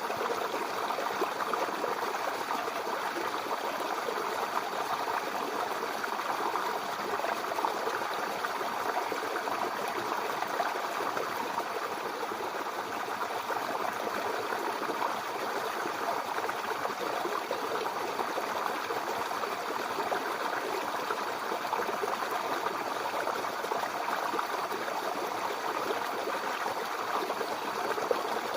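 Mountain river flowing: a steady rushing and babbling of water over rocks, even throughout.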